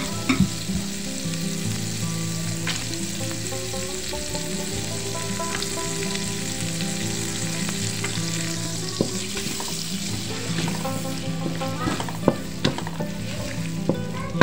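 Diced carrots sizzling in hot melted margarine in a wok while a wooden spatula stirs them. The spatula scrapes and taps against the pan, with several sharper taps near the end.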